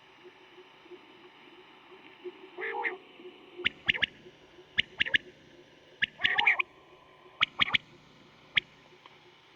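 A common quail (batair) calls in quick groups of about three sharp, high notes, several times over, with a couple of lower, fuller notes in between. This is the male's rhythmic song used as a lure call for quail hunting.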